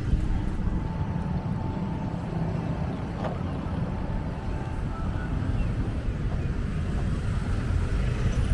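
Outdoor street noise: a steady low rumble throughout, with a faint thin tone in the first couple of seconds.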